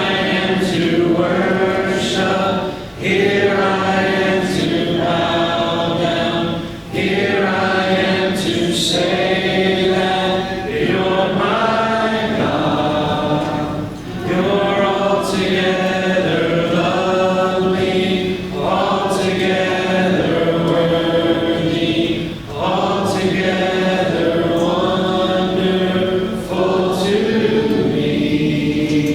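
Congregation singing a hymn a cappella, many voices together without instruments, in phrases of a few seconds with short breaks between them.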